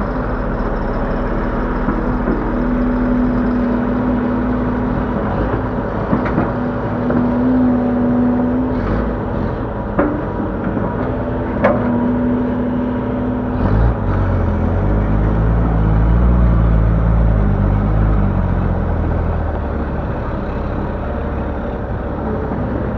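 Link-Belt 145X3E hydraulic excavator working: its diesel engine runs under load, with a steady hum that comes and goes every few seconds as it digs and loads. There are a few sharp knocks around the middle, and a deeper pulsing engine note builds in the second half.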